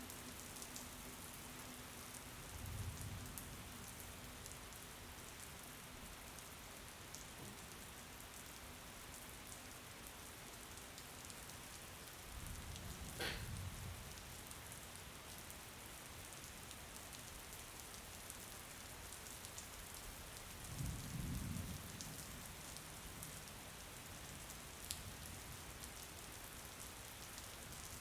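Steady rain falling, with scattered drip ticks. Three short low thumps break through it, the middle one with a sharp click.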